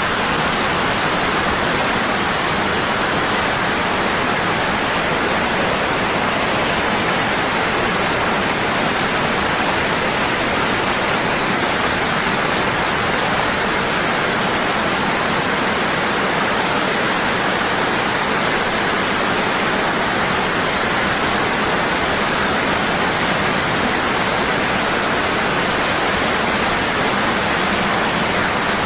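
Waterfall falling strong and constant, a steady even rush of water with no changes.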